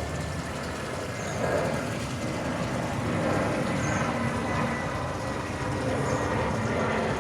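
Medium commercial jet airliner's engines running: a steady noise with a faint whine over it.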